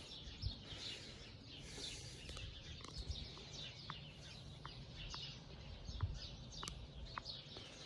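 Faint birdsong: small birds chirping, scattered short chirps over a light background hiss.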